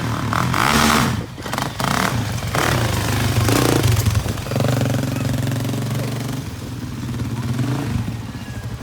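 Suzuki LTZ sport quad's engine revving unevenly under throttle, with a few clattering knocks, then held at a steady pitch for a couple of seconds before easing off to a lower speed.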